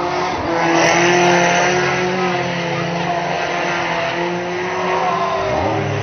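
Banger race cars' engines running and revving as cars drive round the track, several engine notes rising and falling over each other. One engine revs sharply upward near the end.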